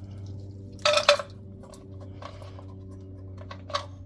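Hard plastic clatter and clicks as a cap is put onto a jug of drained engine oil, with one sharp clack about a second in and smaller clicks after, over a steady low hum.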